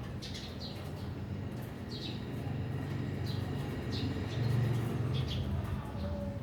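Small birds chirping: short, high, falling chirps repeated every second or so over a steady low rumble.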